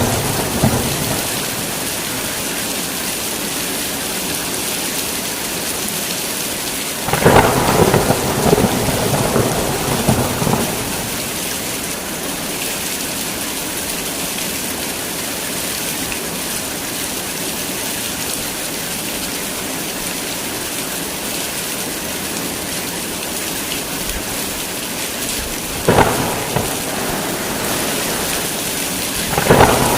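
Heavy rain falling steadily, with thunder in a thunderstorm: a long rumbling peal about seven seconds in that lasts several seconds, a sharp crack near the end, and another peal just before the end.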